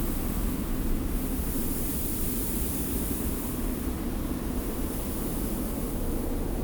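Steady wind blowing, with a low, even rush and a high hiss of blown sand that swells about a second in and eases near the end.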